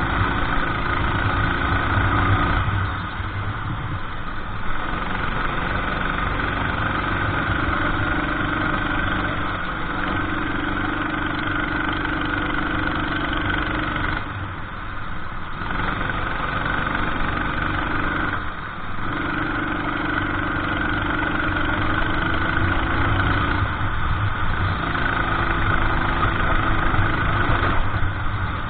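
Racing kart engine running hard through a lap, its note mostly steady, easing off briefly about three times (for corners) and picking up again each time.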